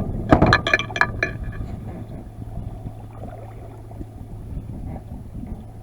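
A quick run of small sharp clinks and knocks in the first second or so, then low steady wind and water noise.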